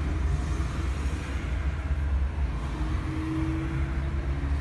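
Steady low rumble of a car's engine and road noise, with a faint steady hum joining about halfway through.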